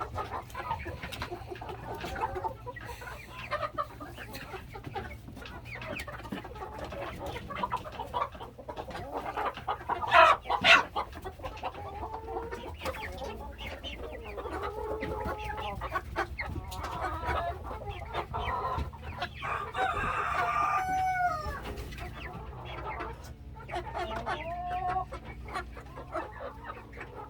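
A flock of young chickens, hens and cockerels, clucking and calling over and over, with one loud call about ten seconds in. A steady low hum runs underneath.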